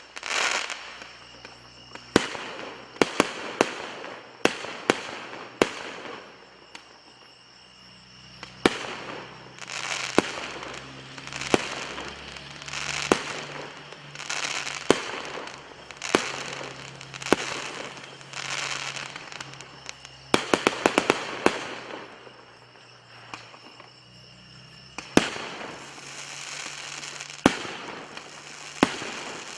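Fireworks going off: sharp bangs about every second or two, each followed by a crackling hiss as the shells burst. About twenty seconds in there is a quick run of several bangs.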